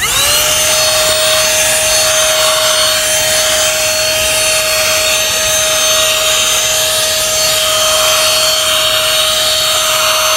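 Car vacuum switched on, its motor spinning up within a moment to a steady whine with a rush of air, running on without pause.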